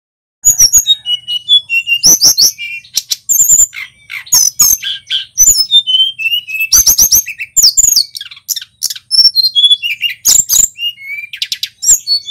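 Male tledekan gunung singing a fast, varied song of high chirps, whistled glides and rapid rattling trills, starting about half a second in after a brief silence.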